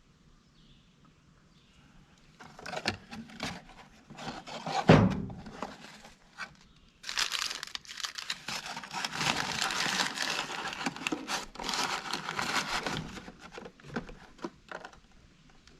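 Packaging crinkling and tearing as the new carburetor's parts are handled and unwrapped. A few light knocks and one louder thump come about five seconds in, then a long stretch of dense crinkling.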